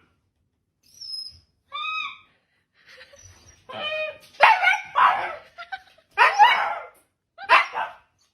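A dog whines in a few short high-pitched calls, then barks about four times, loudly, from about four seconds in.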